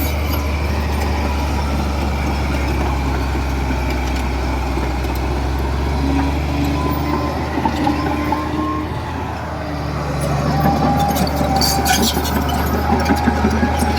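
Bulldozer's diesel engine running steadily under work, with a higher whine that comes and goes in the middle and sharp metallic clanks near the end.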